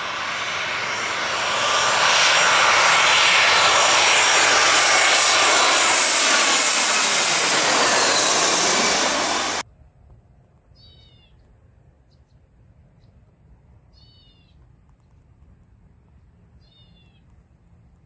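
Jet airliner passing low overhead, its engine noise swelling over the first couple of seconds and staying loud before cutting off abruptly about ten seconds in. Afterwards it is quiet apart from three short chirps a few seconds apart.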